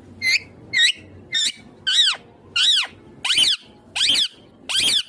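Indian ringneck parakeet giving a run of about eight short, shrill calls, roughly two a second. Each call is a quick note that arches up and falls back in pitch.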